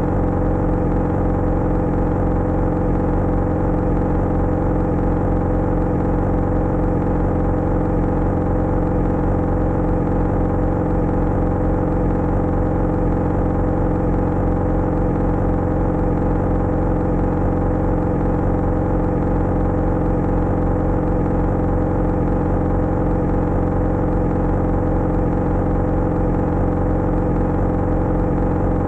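Yamaha XJ6's inline-four engine running at steady, unchanging revs, a constant even drone with no revving.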